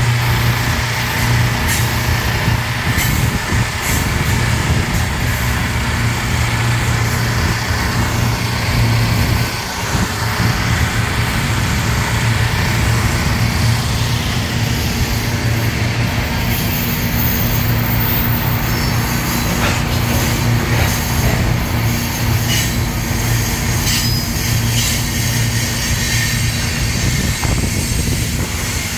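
Freight train of loaded hopper cars rolling past, a steady low rumble with scattered clanks from the wheels and couplings.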